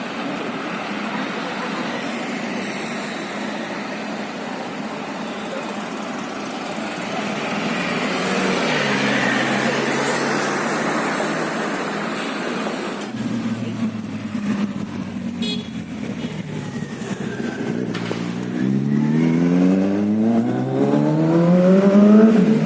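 Road traffic noise, then a car engine accelerating near the end, its pitch climbing in two rising sweeps as it revs up.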